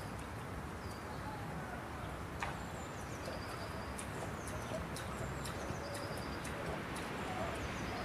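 Small bird calling repeatedly, each call a short high note that steps down to a lower one, every second or two, over a steady background hiss.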